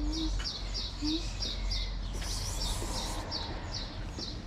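A small bird chirping over and over, short high chirps about three a second at an even pace, with a brief hiss of noise about two seconds in.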